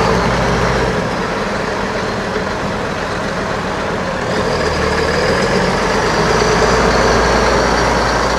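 Case IH 7140 tractor's six-cylinder turbo diesel engine running steadily, getting a little louder about halfway through.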